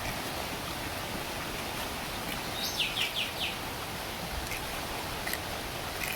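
Steady heavy rain hiss, with a bird giving a quick run of about four short falling chirps about three seconds in.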